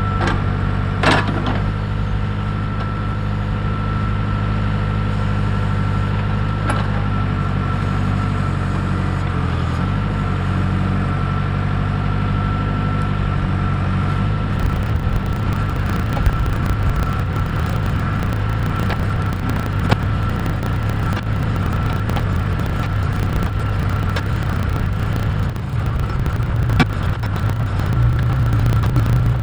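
Case 580K backhoe's diesel engine running steadily under load while digging, its pitch shifting slightly a few times, with a steady high whine over it. A few sharp knocks and clanks come through, about a second in, around seven seconds in and near the end.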